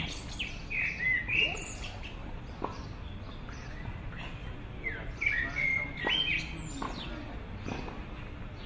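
Small songbirds chirping in the trees: short high chirps and quick rising and falling notes, in bunches in the first second or so and again just past the middle, over a faint steady outdoor background.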